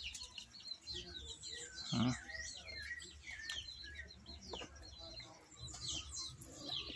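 Small birds chirping, many short quick falling chirps overlapping throughout, with a short low sound about two seconds in.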